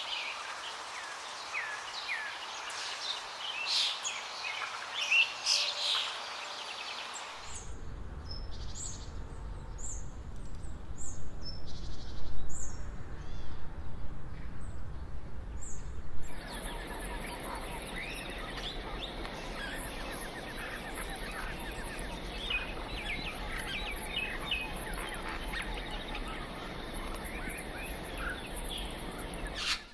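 Wild birds chirping and calling over a steady background hiss. The sound changes abruptly about seven and a half seconds in, to a low rumble with a few scattered high chirps, and again about sixteen seconds in, to a denser chorus of chirps.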